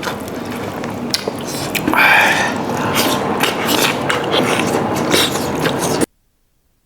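Close-miked eating sounds: chewing and biting with many small wet clicks and smacks, and a short vocal sound about two seconds in. The sound cuts off abruptly about six seconds in.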